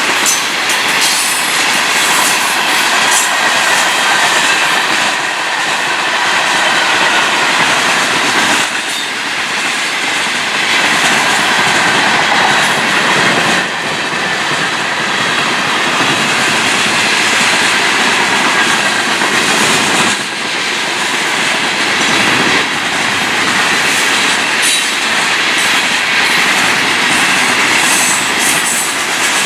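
Florida East Coast freight train rolling past at speed, its wheels clattering steadily over the rails, with brief dips every few seconds and a thin wheel squeal now and then.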